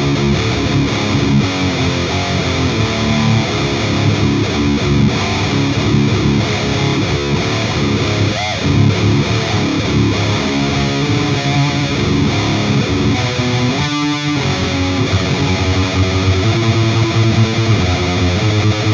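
High-gain distorted electric guitar riffing with palm-muted chugs, played through an Engl Savage 120 Mark II amp on its channel 4 into a 4x12 cabinet loaded with Celestion V30 speakers. This is the amp's own distortion, with no boost pedal or noise gate engaged.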